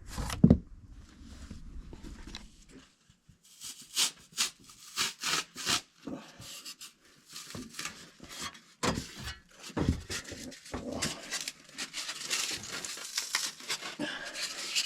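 Scattered knocks, taps and rustling as wooden door parts are handled and fitted back together, with a low thump about half a second in.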